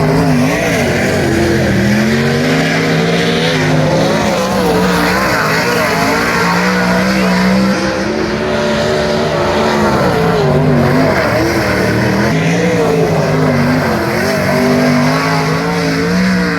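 Several sprint car engines running together at racing speed, their pitch rising and falling again and again as the cars lift and get back on the throttle through the corners.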